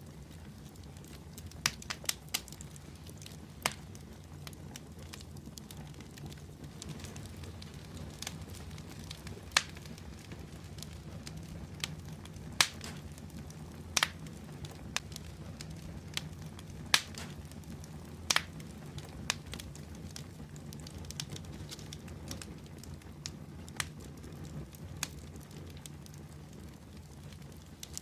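Wood fire burning in a fireplace: a steady low rumble of flame with sharp, irregular pops and crackles, about a dozen standing out louder.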